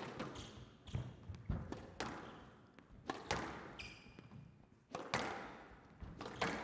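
A squash rally: the ball cracking off rackets and the court walls about once a second, with a brief squeak of a shoe on the court floor about four seconds in.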